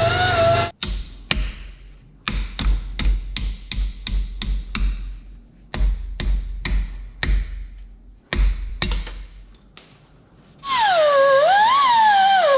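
A hammer striking metal again and again in quick, irregular blows, two to three a second, with short pauses. Near the end a long, wavering, high-pitched wail takes over.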